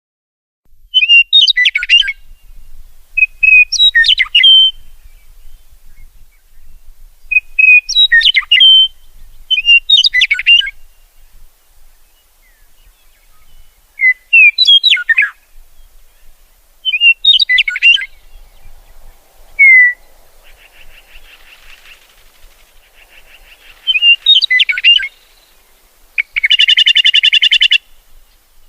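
A songbird singing short chirping phrases every two to three seconds, ending with a longer buzzy, rattling call near the end.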